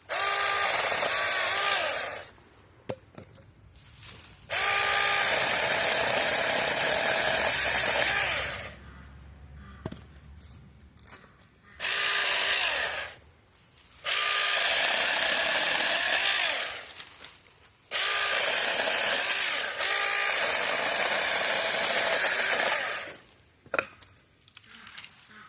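Battery-powered mini chainsaw run in five bursts of a few seconds each, with quieter pauses between, cutting small pieces of wood. Each run opens with a short rising whine as the motor spins up.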